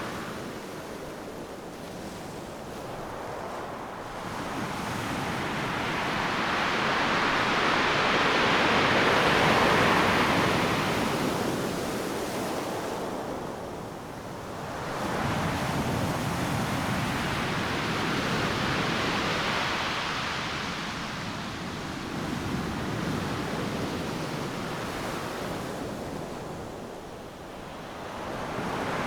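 Ocean waves breaking on a beach in slow surges, the hiss of surf swelling and fading about every ten seconds, loudest about a third of the way in.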